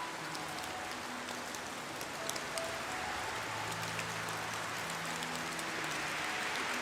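Steady rain falling, with single drops ticking through the wash. Soft, sustained low music notes swell and fade faintly underneath.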